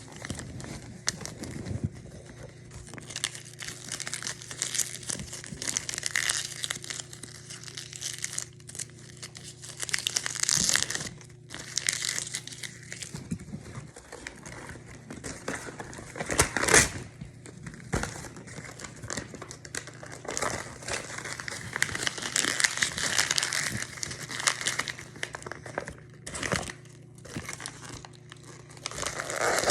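Continuous handling of crinkly material, crumpling and crinkling with irregular crackles, loudest in a sharp burst about seventeen seconds in, over a faint steady low hum.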